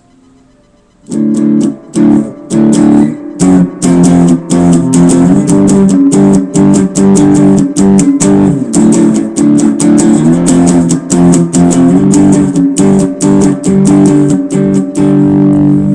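Guitar playing power chords, starting on G5, in a fast strummed rhythm with brief muted gaps between strokes; it starts about a second in.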